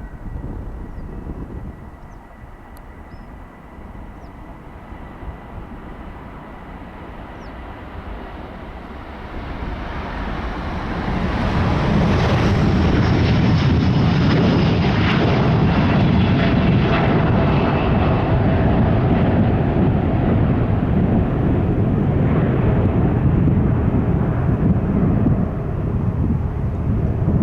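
Jet airliner taking off. Its engine noise swells over several seconds into a loud, steady rumble with a high whine on top, and it stays loud to the end.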